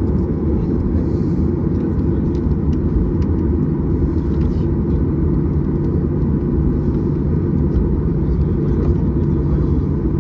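Cabin noise inside a Boeing 737-800 taxiing after landing: a steady low rumble from the CFM56-7B engines at idle and the airframe rolling on the taxiway, with a faint steady hum above it.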